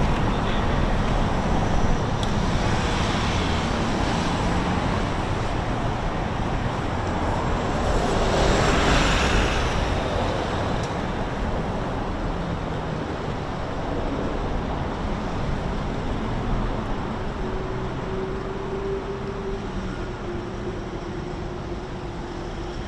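Road traffic going by steadily, with one vehicle passing close about eight to ten seconds in, swelling and fading.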